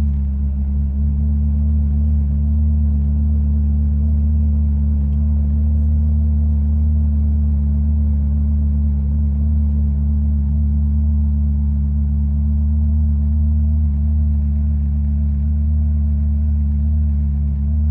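Ferrari California's V8 engine idling steadily after a cold start, holding an even pitch with no revving.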